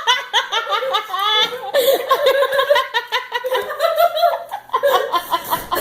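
Several people laughing together, with high-pitched, overlapping giggling and chuckling.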